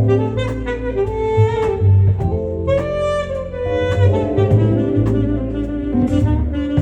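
Live jazz band: a saxophone plays the melody in sustained, gliding phrases over a bass line and a steady drum beat.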